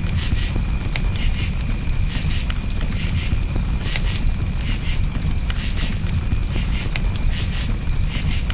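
Crickets chirping in short, repeated pulsed chirps at a steady pitch, over a campfire crackling with scattered sharp pops and a low steady rumble.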